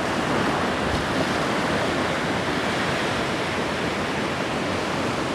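Ocean surf washing on the beach, a steady rush of waves.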